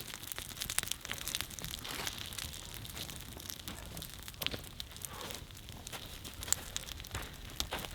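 Newly lit campfire of kindling catching, with dense irregular crackling and small snaps.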